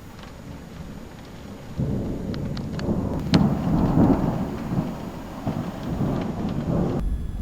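Thunder over falling rain: a deep roll starts about two seconds in, peaks with a sharp crack around the middle and rumbles on until near the end.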